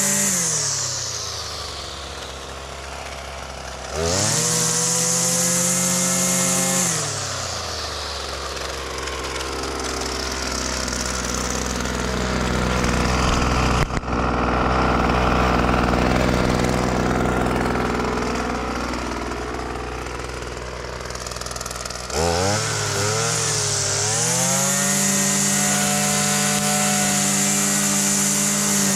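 Husqvarna 326LD string trimmer's small two-stroke engine running after a fuel-line repair. It is blipped up to high revs and let back down to idle several times, with a long steady idle in the middle, and there is a single sharp click about fourteen seconds in.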